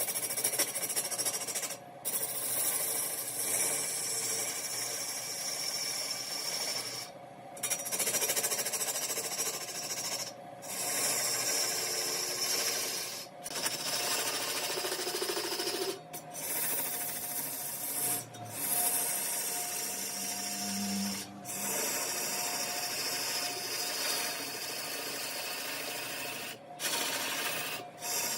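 Mahogany being turned on a large woodworking lathe: a cutting tool scraping and shaving the spinning wood in a steady hiss over the machine's hum, broken by brief gaps every few seconds.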